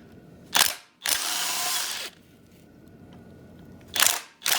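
Impact wrench spinning out bolts from an LS engine's AC compressor bracket, in two runs of about a second each: one about half a second in and one near the end.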